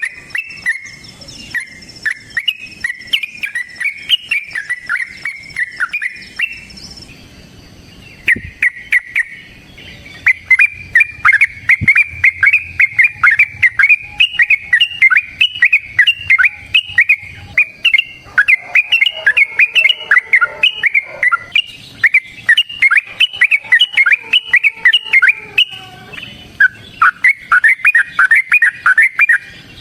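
Yellow-vented bulbul (trucukan) singing a long, fast chattering run of bubbly notes, about four to five a second, with a short break about seven seconds in. A faint steady high insect-like trill runs under it for the first several seconds.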